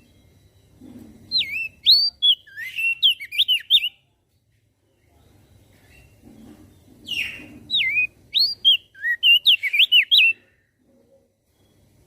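Crested dark-eye (opior jambul) singing two phrases of quick, slurred whistled notes, each opening with a short harsh burst, with a pause of about three seconds between them.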